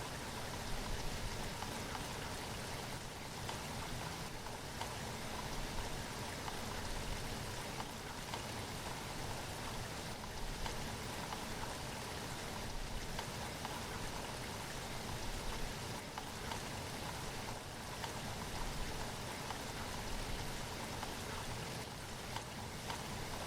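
Steady rain falling, an even hiss with the patter of individual drops on surfaces.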